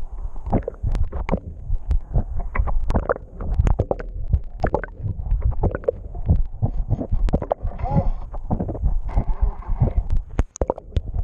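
Muffled water rushing and gurgling against the microphone, with a low rumble and many irregular knocks.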